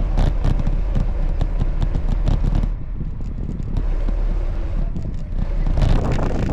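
Wind and road rumble on a moving bike-mounted microphone, with scattered crackling clicks and rattles that come thickest in the first couple of seconds and again near the end.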